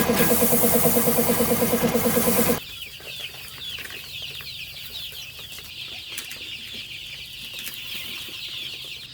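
A small engine running with an even, fast pulsing beat, which cuts off suddenly about two and a half seconds in. Many chicks then peep, in short high falling cheeps.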